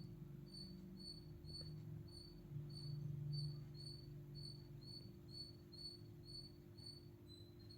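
Faint, regular high-pitched chirping, about two chirps a second, over a low steady hum.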